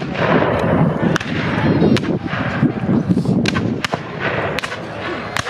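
Scattered sharp cracks of blank small-arms fire, about eight irregular shots, over a murmur of voices.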